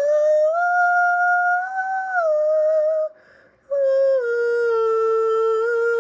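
Solo female mezzo-soprano voice holding long wordless notes, with no accompaniment: a higher held note that steps up, then slides down, a short breath about halfway, then a lower sustained note.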